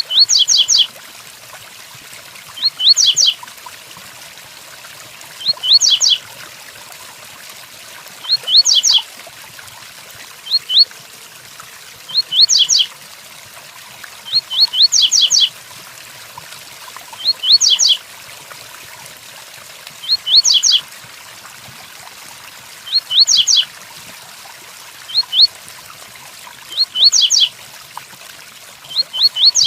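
Double-collared seedeater (coleiro) singing the 'tui tuí' song type: short phrases of a few quick high notes, repeated about every three seconds, over a steady hiss of rain.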